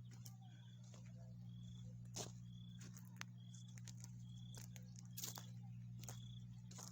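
Quiet outdoor ambience: a small animal gives a short high chirp over and over, about once every second, over a steady low hum, with a few scattered clicks.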